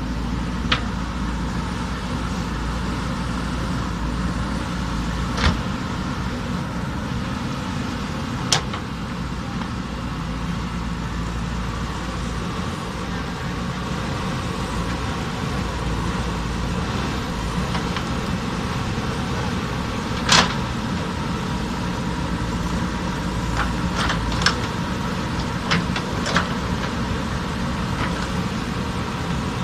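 JCB backhoe loader's diesel engine running steadily, with several short sharp knocks, a cluster of them near the end.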